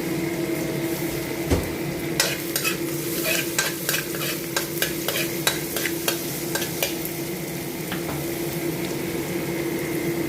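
Garlic and sliced ginger sizzling in hot oil in a wok, stirred with a utensil that clicks and scrapes against the wok in quick strokes from about two to seven seconds in. A steady low hum runs underneath.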